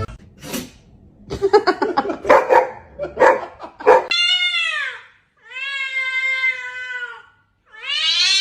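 Domestic cat vocalising after catnip: a run of short, harsh calls, then three drawn-out meows. The first and last meows arch up and fall away, and the middle one is long and held at a steady pitch.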